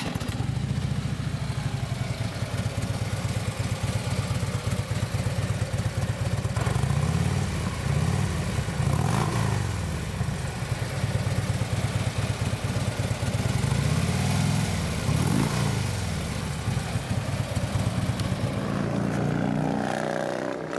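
2016 Harley-Davidson Street Glide's Twin Cam 103 V-twin running through Vance & Hines slip-on mufflers. It idles steadily, is revved a few times in the middle with the pitch rising and falling, and settles back to idle.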